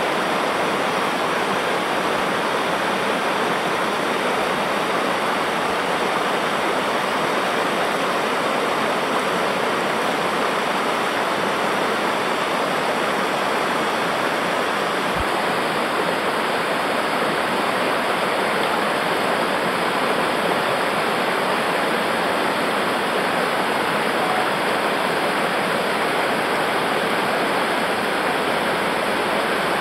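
Steady rush of fast-flowing river water tumbling over rocks, even and unbroken.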